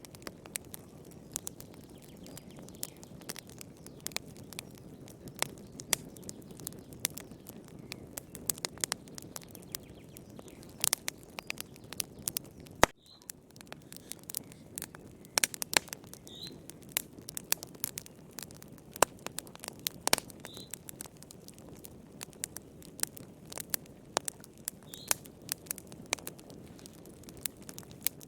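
Wood fire in a fireplace crackling: irregular sharp pops and snaps over a low steady rush, with one louder pop about halfway through. A few brief high chirps come in the second half.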